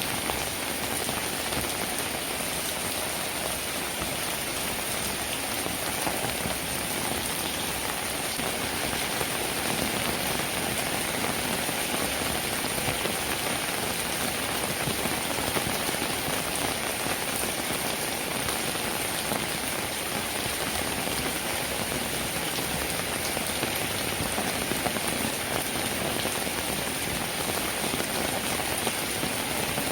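Steady rain falling, an even, unbroken hiss of many drops with no lulls or gusts.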